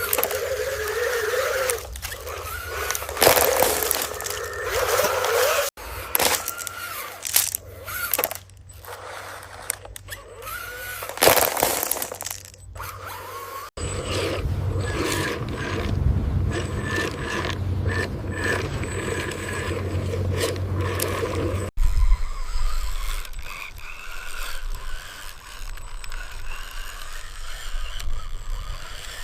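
Small motor and gears of a mini DIY tractor running with a mechanical whir and scraping, the sound changing abruptly three times; in the middle part a steady low motor hum is strongest.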